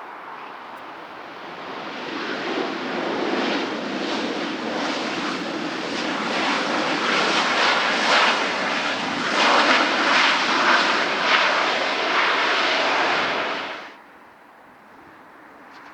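Airliner's jet engines as the plane passes close by, the noise building over the first couple of seconds and staying loud, then cutting off suddenly near the end.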